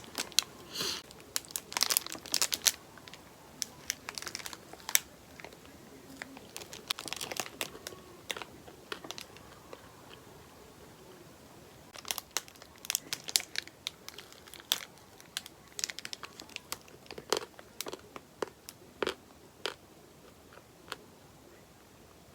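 Crinkling and rustling of something crinkly being handled, in irregular clusters of sharp crackles, busiest in the first few seconds and again through the second half.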